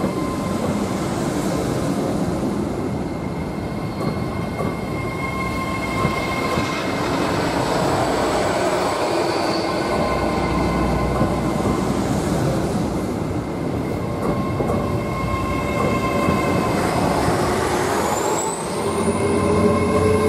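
Hitachi Class 800 "Azuma" bi-mode train rolling slowly past along the platform, running on its underfloor diesel engines: a steady rumble with a high whine that rises in pitch near the end as it picks up speed.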